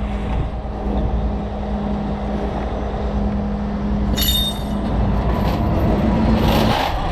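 Heavy diesel truck engine running steadily, with a short high-pitched squeal about four seconds in and a brief hiss near the end.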